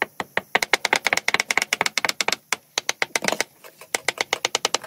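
Rapid sharp tapping, about ten hard clicks a second, with two short pauses.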